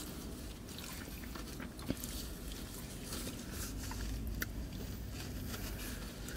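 Close-up chewing of food, with soft crinkling and rustling of a paper napkin being handled, including one sharper click about two seconds in. A low steady rumble sits underneath.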